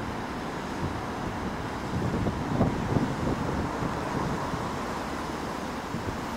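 Low steady rumble of a train moving through the station, with a louder stretch and a few knocks about two to three seconds in, and wind on the microphone.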